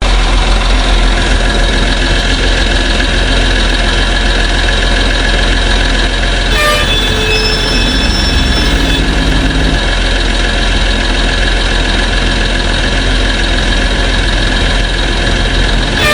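Heavy machine engines running steadily, with several engine tones layered together. The sound breaks off briefly about six and a half seconds in, then carries on.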